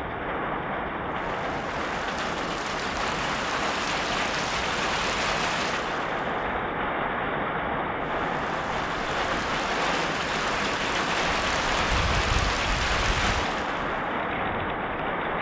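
Heavy rain falling steadily, with a short low rumble near the end.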